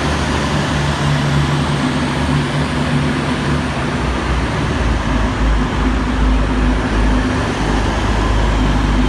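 V/Line VLocity diesel railcar running with a steady engine hum as it departs the platform, with a deep low rumble building from about four seconds in.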